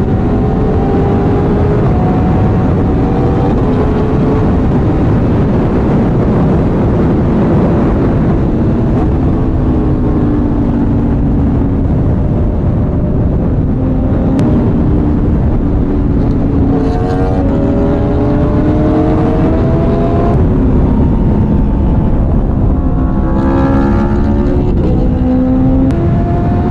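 Motorcycle engine running under way, drowned in heavy wind rush on the microphone. The engine pitch climbs and drops back a few times as the bike accelerates through the gears, most clearly past the middle and again near the end.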